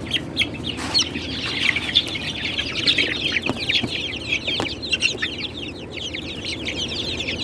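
A crowd of chickens peeping and clucking, many short high calls at once with no pause, and a couple of light knocks about halfway through.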